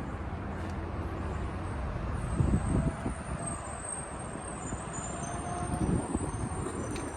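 Cummins diesel engine of an International MV bucket truck idling, a steady low rumble, with two louder rushes of noise, about two and a half seconds in and near six seconds.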